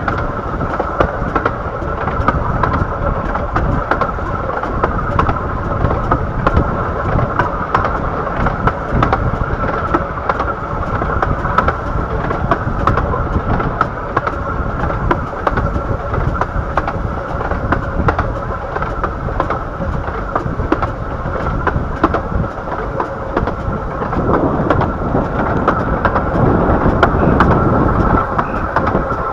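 15-inch gauge Bure Valley Railway train running along the line, heard from aboard: a steady rumble of wheels on track with frequent short clicks and a steady hum in the mid range.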